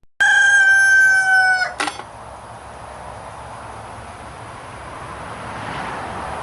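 A rooster crowing once: a loud, held call about a second and a half long that sags slightly in pitch before breaking off. After it comes a softer, steady outdoor hiss that swells a little toward the end.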